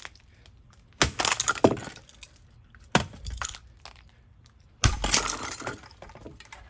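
A hammer strikes a Hunter ceiling fan about four times in hard blows, each followed by clattering as parts break and rattle.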